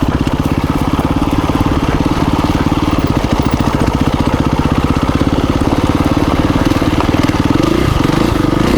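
KTM 350 EXC-F dirt bike's single-cylinder four-stroke engine running steadily at low revs, with a fast, even pulse of firing strokes; the pitch shifts slightly near the end.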